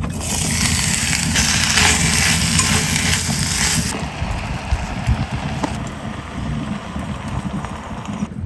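Wood campfire burning, with scattered sharp crackles over a low rumbling noise. A loud steady hiss fills the first four seconds, then cuts off suddenly.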